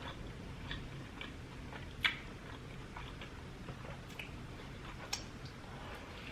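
Close-miked chewing of a juicy breakfast burger with bacon, soft wet mouth clicks and smacks, with a couple of sharper clicks about two and five seconds in.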